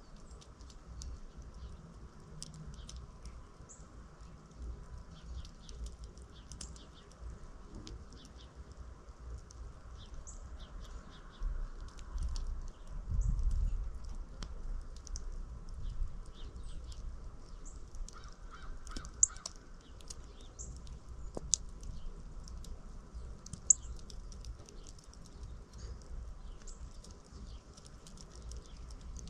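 Small backyard birds chirping: many short, high chirps scattered throughout, over a low rumble that swells briefly near the middle, with a few sharp clicks in the second half.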